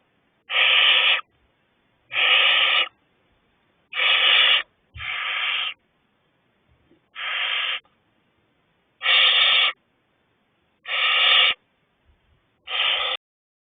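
Owlets in a nest box giving harsh, hissing calls, about eight in a row, each lasting well under a second and coming every second and a half to two seconds.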